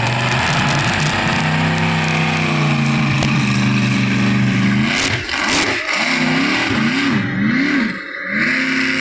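Monster truck engine running at a steady note, then revved up and down three times about six to eight seconds in before settling back to a steady note.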